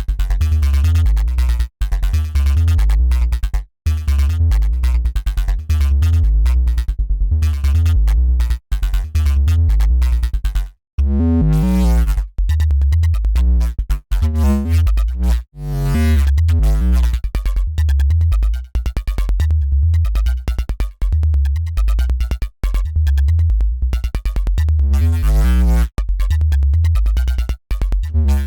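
Dirty FM synth bass riff from a Bitwig Polygrid patch, looping: deep, buzzy bass notes that step between pitches, with brief cut-outs every few seconds where the phrase restarts.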